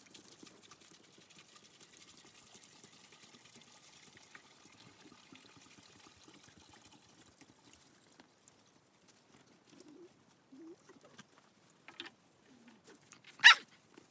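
Water being poured, a faint steady trickle for about the first eight seconds, followed by a few soft knocks and one sharp clink near the end.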